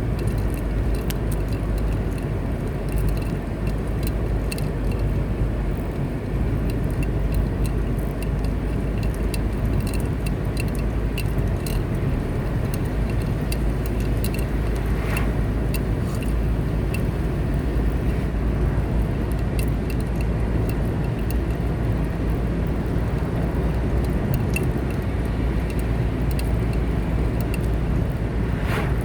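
A car driving steadily along a road: continuous low tyre and engine rumble, with scattered light ticks throughout.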